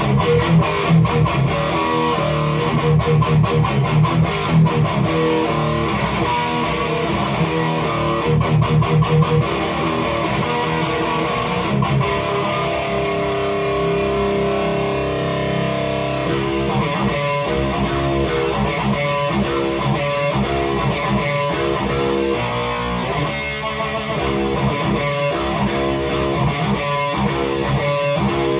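Heavily distorted electric guitar through a REVV G3 distortion pedal on its blue, higher-gain setting, playing chugging metal riffs with short stops, and held notes ringing out midway.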